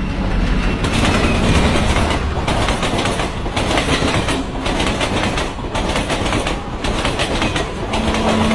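A train running past close by, its wheels clattering over the rails in a loud, dense rush that swells up over the first second.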